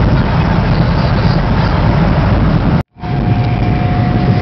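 Steady rumble of a high-speed train running at about 300 km/h, heard inside the carriage. About three seconds in, the sound cuts out for an instant at an edit, and a faint steady hum runs on after it.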